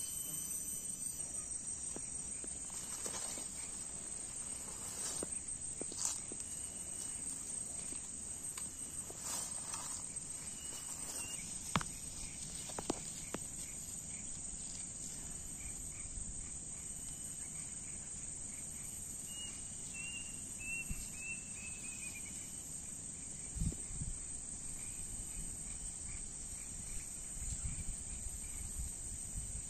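A steady, high insect drone that runs unbroken, crickets among them. Scattered sharp clicks and knocks sound over it, with a brief run of chirps about two-thirds of the way in and a few dull thumps near the end.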